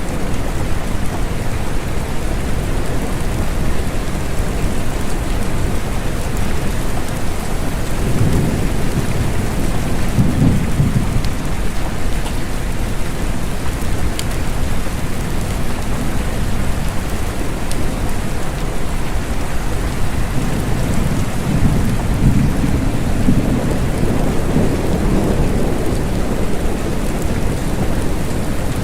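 Steady rain with low rolling thunder, the rumble swelling about a third of the way in and again for several seconds in the latter part.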